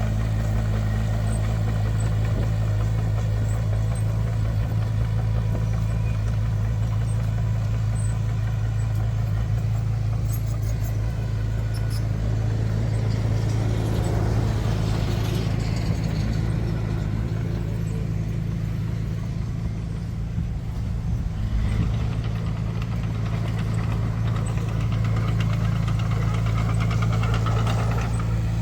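Diesel engine of heavy earthmoving machinery running steadily with a deep, even drone. A little past the middle a brief swell of higher-pitched noise rises and falls, and near two-thirds through the level dips briefly before the engine settles again.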